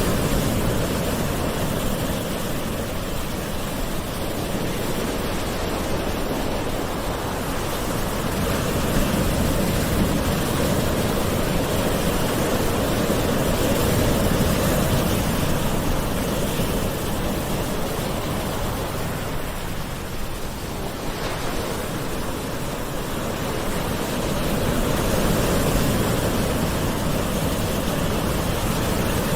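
Gentle ocean waves washing on a shore: a steady rush of surf that swells and eases slowly every several seconds.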